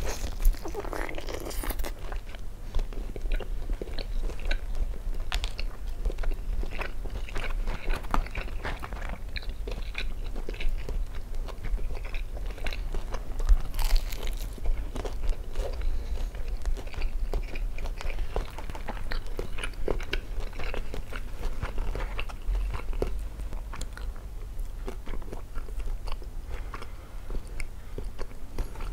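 Biting into and chewing crispy Jollibee Chickenjoy fried chicken, the breaded skin crunching in many short crackles.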